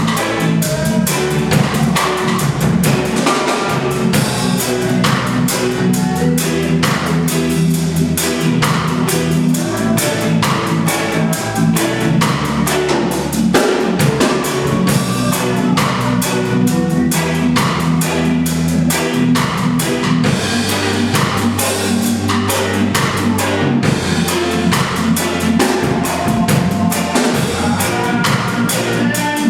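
A reggae band playing live: a drum kit with a steady, even beat over sustained bass guitar notes, with guitar.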